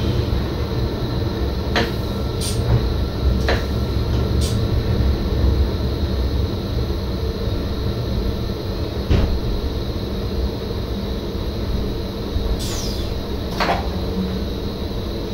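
Cab noise of an NS SGM Sprinter electric train: a steady low rumble broken by occasional sharp clicks and knocks.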